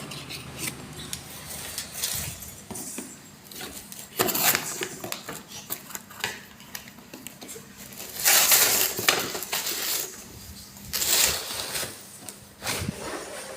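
A toy's box and packaging being handled and opened: scattered clicks and clatter, with a few louder bursts of rustling and scraping about four, eight and eleven seconds in.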